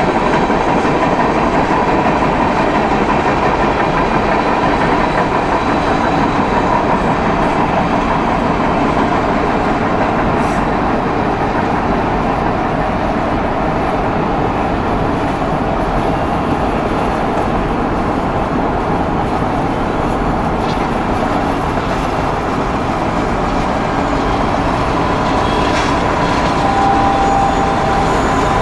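Freight train of autorack cars rolling, a steady rumble of wheels on rail heard from a car driving alongside. Near the end a steady whine joins in.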